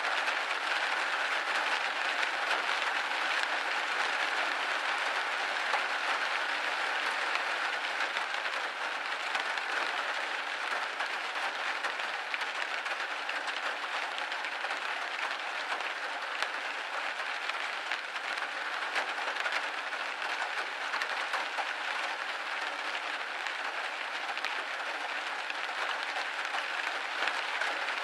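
Steady rain pattering against a window pane: a dense, even hiss of many small drop impacts, with no let-up.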